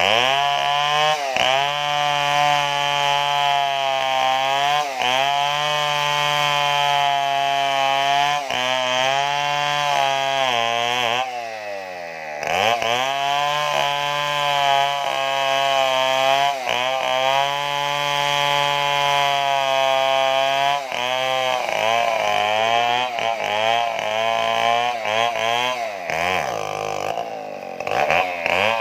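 Stihl two-stroke chainsaw running at high revs while cutting, its pitch dipping and recovering again and again under load. About eleven seconds in it drops back to a low speed for a moment, then revs up again, and near the end the dips come quick and frequent.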